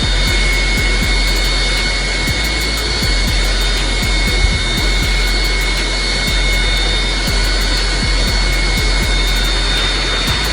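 Steady roar of a jet aircraft's engines with a high, even turbine whine over it.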